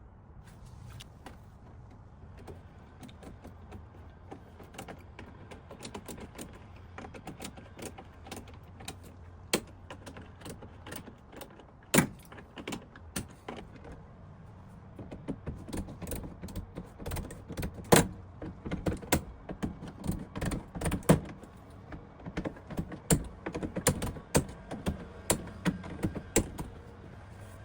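Irregular clicks and knocks of hand tools and pipe fittings being handled during drain repair work, over a low steady hum. The knocks come thicker and louder in the second half, with a few sharp loud ones standing out.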